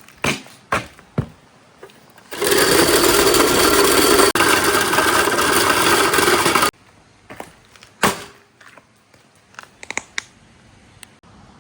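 Marbles on a marble run: a few sharp clicks as marbles strike the track, then about four seconds of continuous rolling rattle that stops abruptly, followed by scattered light clicks.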